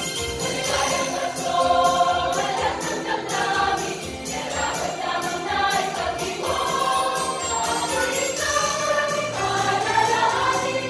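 Choir singing a Christmas carol with instrumental accompaniment and a steady high percussion beat.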